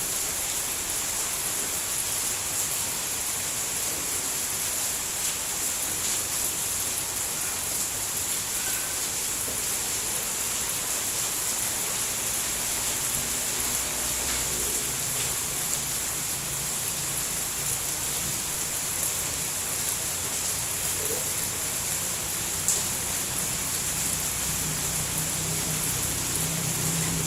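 Steady rain, an even hiss with no pauses. A low hum rises in during the last few seconds.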